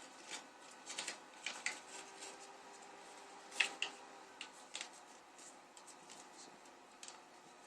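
Sheet of origami paper being handled and creased by hand: scattered short crinkles and snaps, busier in the first half and sparser later.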